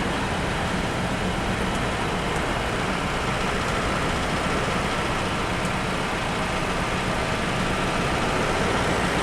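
Steady engine and road noise of a moving bus, holding an even pace with a constant low hum.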